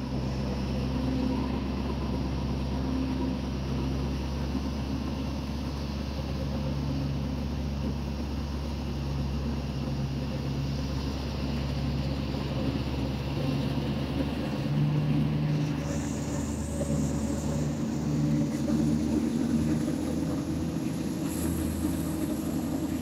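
Passenger train running slowly on the rails, heard from a carriage window: a steady diesel engine hum over the rumble of the wheels. A faint high whine rises over the last few seconds.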